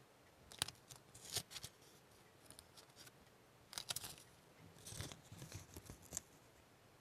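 Small objects being handled close up: three short clusters of light clicks and rustles, with quiet gaps between.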